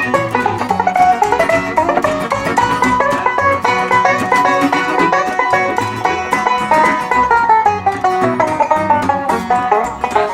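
Bluegrass band playing an instrumental break between verses, with dense runs of picked string notes.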